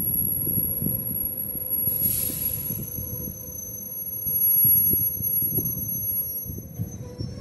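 EMU100 electric multiple unit rolling through a station: a low rumble of wheels on rail with a thin, high, steady wheel or brake squeal over it. A short hiss comes about two seconds in, and the rumble swells louder about halfway through.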